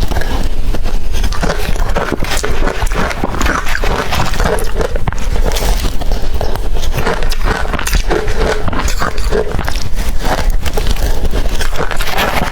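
Close-miked biting and crunching of blender-crushed ice, with many crisp cracks in quick succession.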